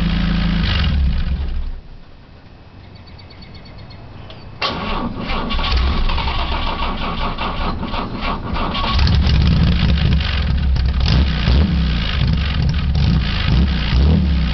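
1950 Chevrolet straight-six with dual exhaust running, then shut off a couple of seconds in. After a short quiet the starter cranks the flooded engine, which sputters and catches with a hiccup. From about nine seconds in it runs steadily.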